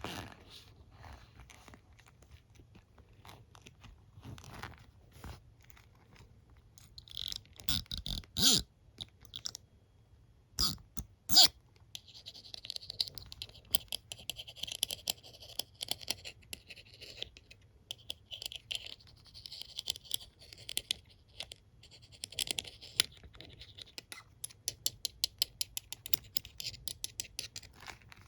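Close-miked handling of a comb and a hairbrush: scattered scratching and raking across bristles and teeth, a few sharp taps about eight to eleven seconds in, and a run of quick, regular clicks near the end.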